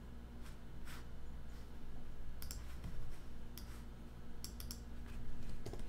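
Computer mouse and keyboard clicks: a dozen or so short, sharp clicks at irregular intervals, bunched about two and a half and four and a half seconds in, over a faint steady low hum.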